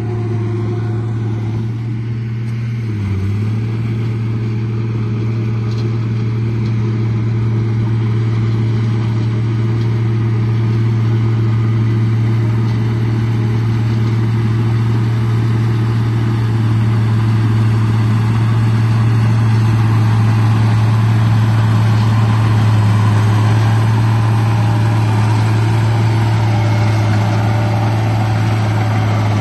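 RC bulldozer running, a steady low engine-like drone that dips briefly in pitch about three seconds in and grows a little louder toward the end.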